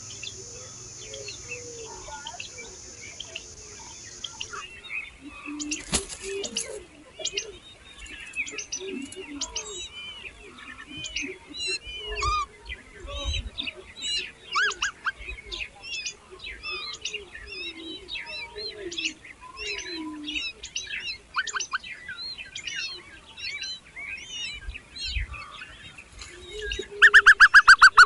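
Nestling birds chirping rapidly and continuously, many short high calls at once, typical of hungry chicks begging to be fed. About a second before the end, a loud, fast, evenly repeated call cuts in over them.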